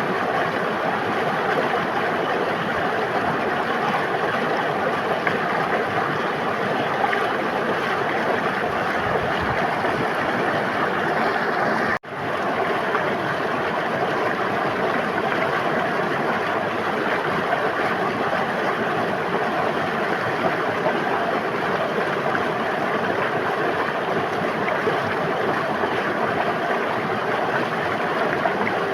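River water flowing steadily, a continuous rushing and babbling, broken once about twelve seconds in by a sudden momentary drop-out where the recording loops.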